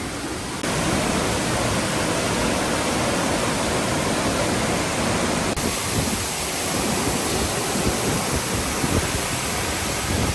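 Large waterfall: a loud, steady rush of falling water. The sound jumps in level about half a second in and changes slightly about halfway through.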